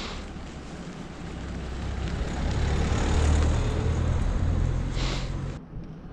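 A motor vehicle passing close by: a low engine hum and tyre noise swell to a peak about halfway through, then fade and cut off suddenly near the end.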